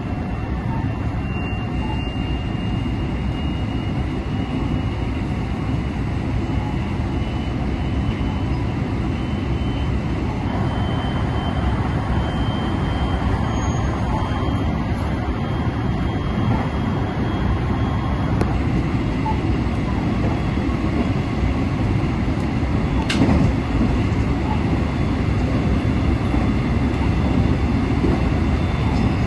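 Train running at speed: a steady low rumble with a faint high whine that slowly rises in pitch, and a single sharp click about three-quarters of the way through.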